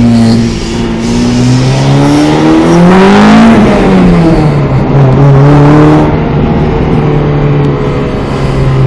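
LS V8 car engine running with a steady note, revved once about three seconds in, its pitch climbing and then falling back.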